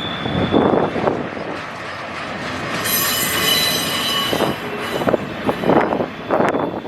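Train rolling past with steel wheels squealing on the rails. A high, ringing squeal stands out about three seconds in, over a steady rumble broken by irregular clunks from the wheels and cars.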